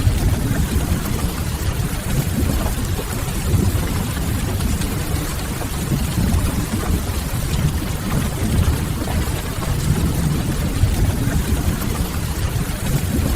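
Steady rain over a deep, continuous low rumble, with faint crackles from a wood fire. This is a mixed rain-and-fireplace ambience track.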